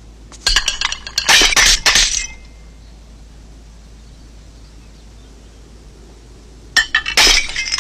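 Rapid clusters of sharp clinks and crashes, a first burst lasting about two seconds and a second, shorter one near the end, with a quiet hiss between them.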